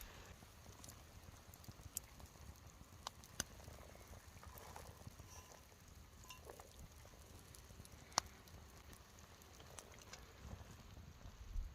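Faint wood campfire crackling: scattered sharp pops, the loudest about eight seconds in, over a low steady hiss.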